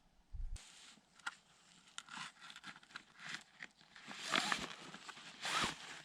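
Irregular rustling and crackling, with scattered sharp clicks and scrapes and two louder rustles in the second half.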